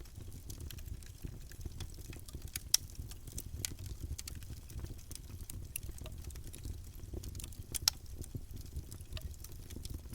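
Campfire burning: wood crackling and popping in scattered sharp snaps over a low steady rumble, with the loudest pops about two and a half seconds and eight seconds in.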